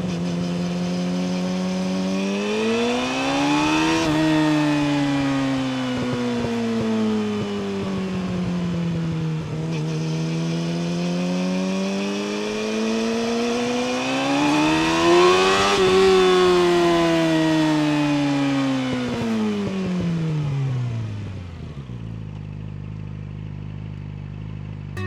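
Yamaha YZF-R6 inline-four running through an Akrapovic slip-on exhaust while being ridden. The revs climb and fall away twice. Near the end the engine settles to a low, steady note.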